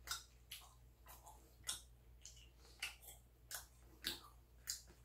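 Faint wet mouth clicks and smacks of someone chewing food, about two a second.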